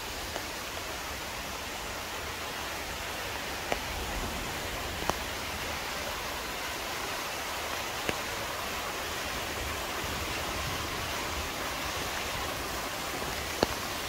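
Steady rush of water from a mountain valley stream and waterfall. A handful of short sharp ticks are scattered over it.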